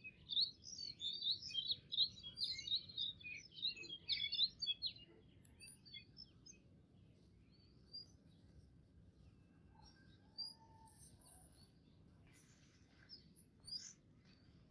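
Birds chirping, a quick, dense run of short notes for the first five seconds or so, then only occasional chirps over a faint low hiss.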